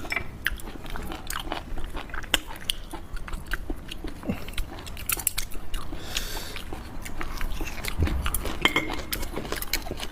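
A person chewing raw hairtail sashimi close to the microphone, with many wet mouth clicks and bites. A brief hissing noise comes about six seconds in.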